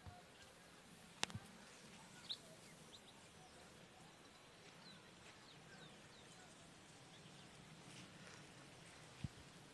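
Faint, scattered short bird chirps over a quiet rural background, with a sharp click a little over a second in and a thump near the end.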